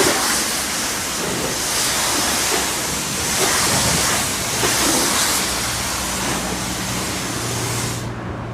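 High-pressure water spraying from a self-service car wash wand, a loud uneven hiss that cuts off just before the end. A low steady hum comes in about halfway through.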